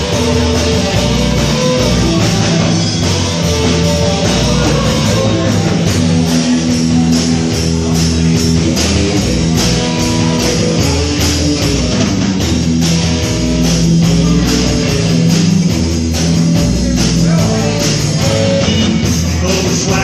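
Rock music: guitar and drum kit playing at a steady, even beat.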